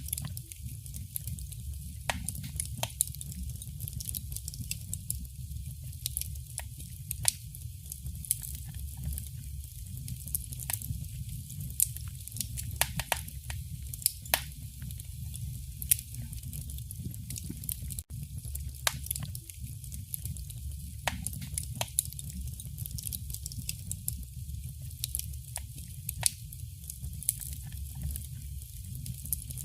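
Wood fire crackling in a fireplace: irregular sharp pops and snaps over a low, steady rumble and hiss.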